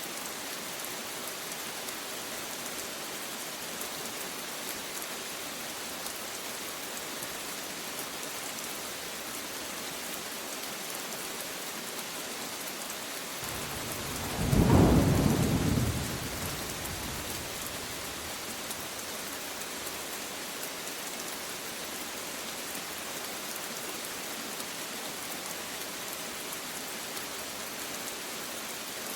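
Steady rain falling, with one clap of thunder rumbling about halfway through, swelling quickly, then dying away over two or three seconds.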